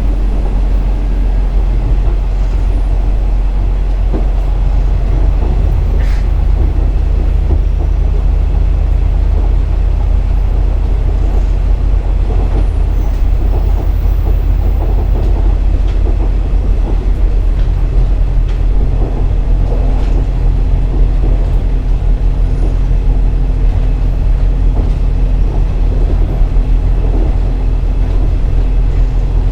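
KiHa 47 diesel railcar running along the line: a steady diesel engine drone under the rumble of wheels on rail. About eighteen seconds in, the engine note shifts, and a second, higher tone joins it.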